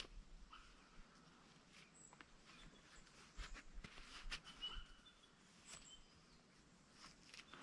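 Near silence, with faint high bird chirps now and then and scattered faint clicks.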